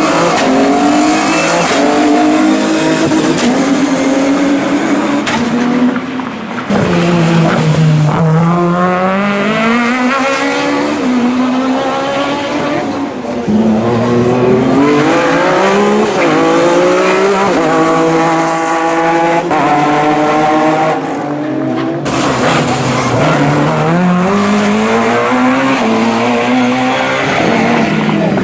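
Racing cars at full throttle on a slalom course, engine pitch climbing through the revs and dropping back at each gear change, over and over. The sound breaks off abruptly and switches to another car about six seconds in and again about twenty-two seconds in.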